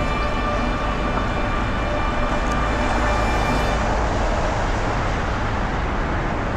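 Steady city street noise of road traffic, with a low rumble. Background orchestral music plays over it and fades out about four seconds in.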